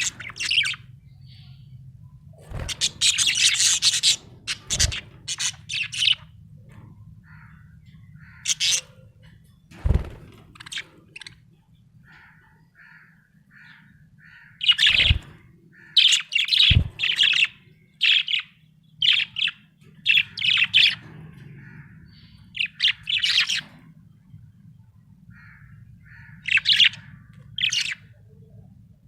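Budgerigar chirping in short, rapid bursts of high twittering, with a few sharp clicks between them and a faint steady low hum underneath.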